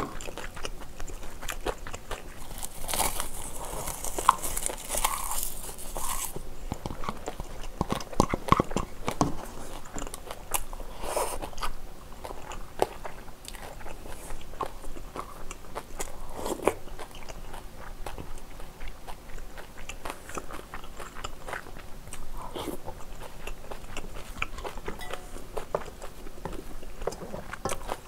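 Close-miked eating: chewing and crunching mouthfuls of kimchi fried rice wrapped in dried laver sheets. There is a spell of crisp crunching a few seconds in, and small clicks of a spoon through the rest.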